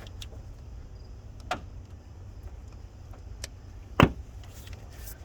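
Handling clicks under the hood as spark plug wires are pulled off the distributor cap and hung aside: a few light clicks and one sharper knock about four seconds in, over a low steady rumble.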